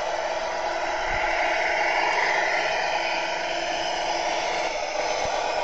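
Tamiya Scania R470 radio-controlled model truck running, its electric motor and gearbox giving a steady whir.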